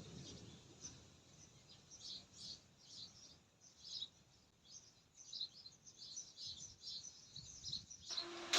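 Small birds chirping in quick, high, faint calls, many in a row. Near the end a steady hiss sets in suddenly.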